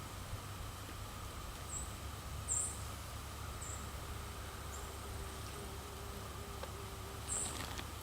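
Baby moles squeaking in the soil: four short, very high-pitched squeaks spread across the stretch, over a steady low background hum.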